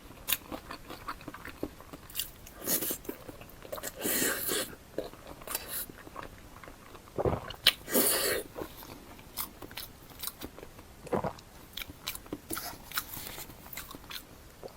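Close-miked eating: a person biting and chewing food, with irregular bursts of crunching and mouth noise and a few sharper bites.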